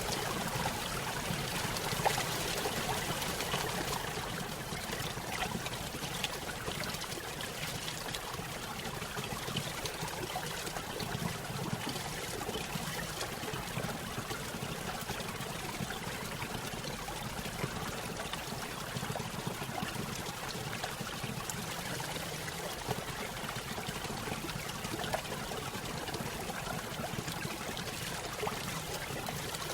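Small stream spilling over a little waterfall: continuous trickling and splashing water with small irregular drips, a little louder for the first few seconds.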